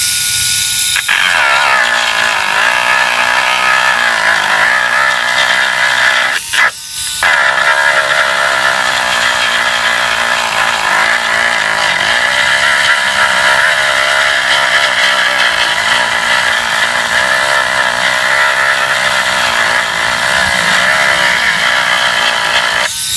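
Cordless Dremel Multi-Pro 770 rotary tool running at low speed with a sanding band, grinding and roughening the plastic top tank of a radiator to prepare it for an epoxy patch. Its steady whine wavers in pitch as it bears on the work, and it briefly cuts out about six and a half seconds in before running on.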